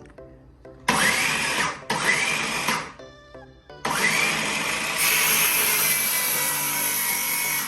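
A power tool run in three bursts, two short ones and then a longer one, its motor whine rising as it spins up each time and then holding steady, over background music.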